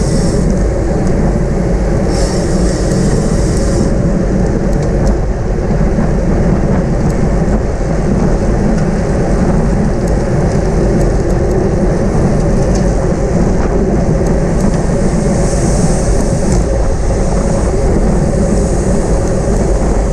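Steady rush of wind over the microphone mixed with tyre and road noise from a road bicycle ridden at race speed.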